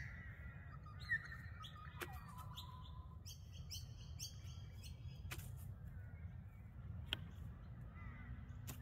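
Small birds chirping and calling, with a quick run of short repeated chirps a few seconds in, over a low steady background rumble; a few faint sharp clicks.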